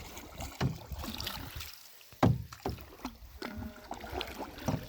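A canoe being paddled: a steady low wash of water with several sharp knocks of paddles against the canoe, the loudest a little after two seconds in.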